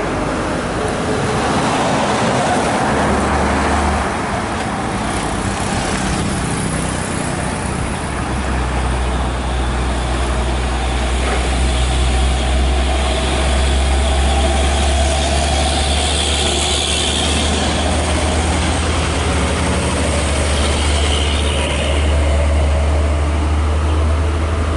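Heavily loaded truck running slowly under load, a steady deep engine rumble with tyre and road noise, the rumble growing stronger about a third of the way in.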